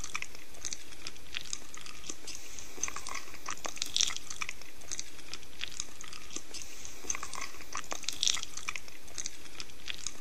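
Steady crunchy chewing of a candy bar: a run of small crackly bites and munches, with louder crunches about four and about eight seconds in.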